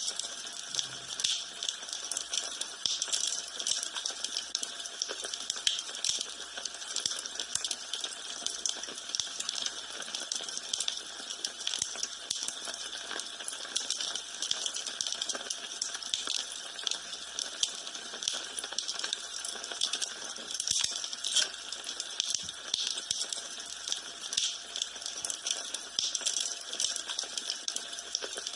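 Wood fire burning in a fireplace, with a steady hiss and constant small crackles and pops.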